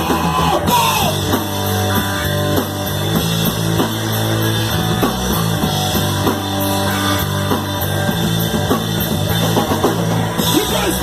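Loud live rock band playing, with guitars, bass and a drum kit in a punk-rock style; a mostly instrumental passage with no clear sung words.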